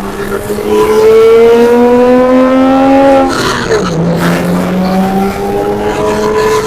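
Porsche 987.1 Cayman S's 3.4-litre flat-six with a Fabspeed cat-back exhaust, revving up hard under acceleration. The pitch climbs steadily, drops at a gear change about three and a half seconds in, then climbs again in the next gear.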